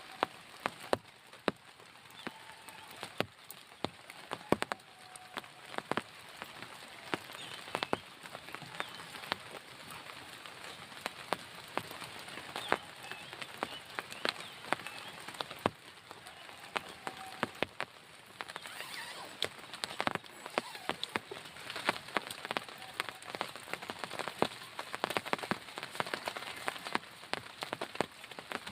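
Rain falling steadily, with many single drops tapping sharply and irregularly on a nearby surface over an even patter.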